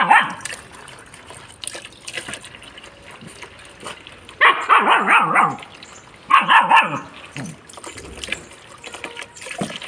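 German shepherd barking in a few bursts over trickling running water: a brief bark at the start, a longer run of barks about four and a half seconds in and another about six and a half seconds in.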